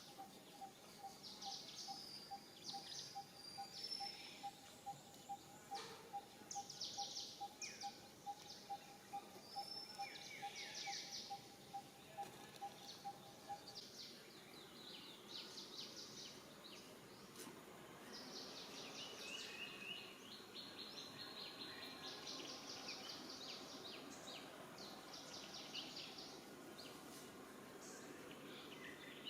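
Faint outdoor ambience of birds chirping and trilling in short high bursts. A steady, rapidly pulsing tone runs beneath them for the first half and stops about halfway through.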